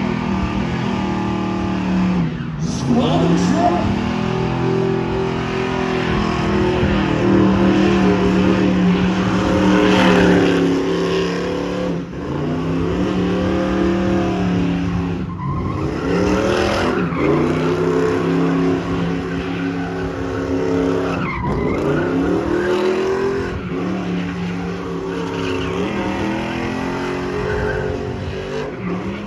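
Squatted GMC pickup truck's engine held at high revs during a burnout, its rear tyres spinning and squealing on the pavement. The engine pitch drops and climbs back again several times.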